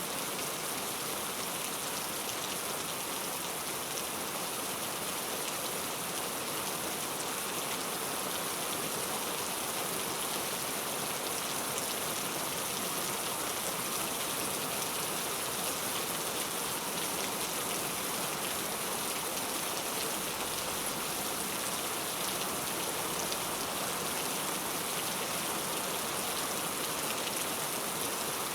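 Heavy rain falling steadily: a dense, even hiss with scattered faint drop ticks.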